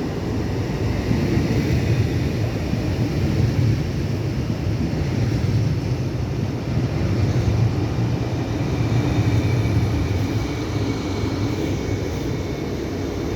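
Train moving through a station, a steady low rumble with faint higher tones above it.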